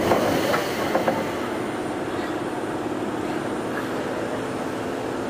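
Interior of a Sotetsu 7000 series electric train car (Hitachi GTO-VVVF inverter) standing in a station: a hiss of air cuts off at the start, a few sharp clicks follow in the first second, then the car's equipment hums steadily while the train is stopped.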